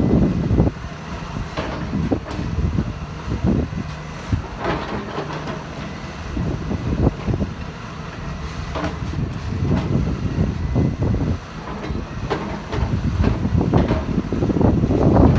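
Caterpillar 320 hydraulic excavator's diesel engine running, with frequent irregular metallic clanks and knocks, louder near the end.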